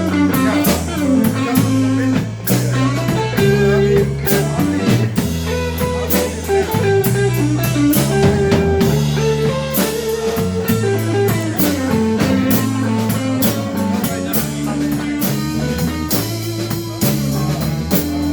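Live slow blues band playing an instrumental passage: electric guitar bending notes over bass and a drum kit.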